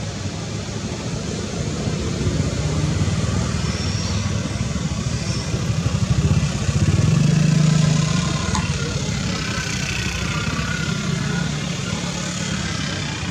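A motor vehicle's engine running nearby, a low rumble that grows louder for a couple of seconds around the middle and then eases off.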